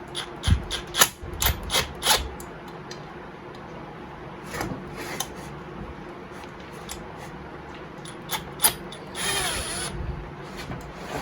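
Metal hand tools clicking and clattering on a chainsaw muffler as it is taken apart to get at its spark-arrestor screen. The clicks come quickly at first, then sparsely, with a short scraping rasp near the end.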